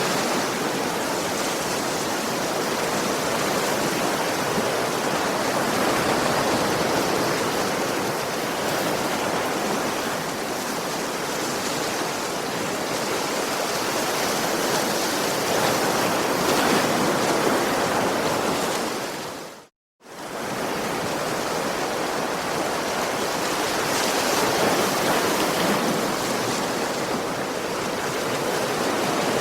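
Ocean surf washing ashore in a steady rush that gently swells and eases. It cuts out to silence for a moment about two-thirds of the way through, then resumes.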